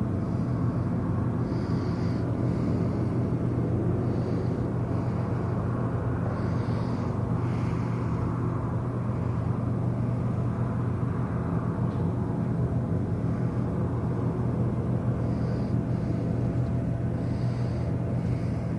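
Cruise ship machinery running with a steady low rumble and hum during docking, with faint short high chirps now and then.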